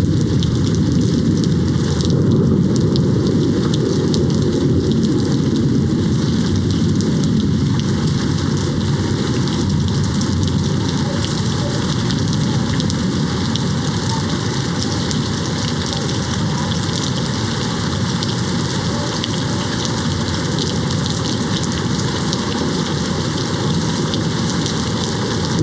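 Steady heavy rain hitting a window, a dense patter of drops over a constant low rumble, unbroken throughout.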